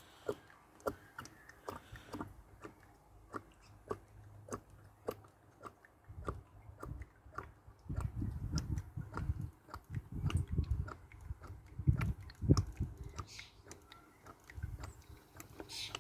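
Irregular light clicks and taps of tools and parts being handled during car maintenance, with a run of dull low knocks about halfway through.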